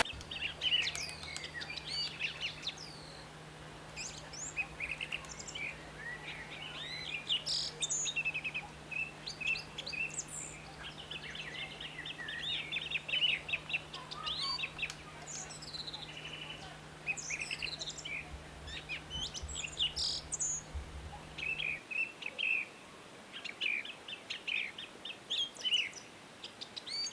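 Several small birds chirping and twittering, with many short calls and quick trills overlapping throughout. A faint steady low hum sits underneath and cuts off near the end.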